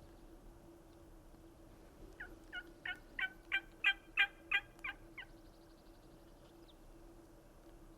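A run of about nine turkey yelps, about three a second, building in loudness and then fading over roughly three seconds.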